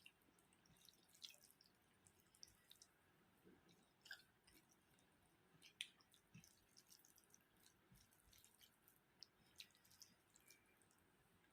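Faint, irregular wet clicks and smacks of a person chewing and eating a rice and curry meal.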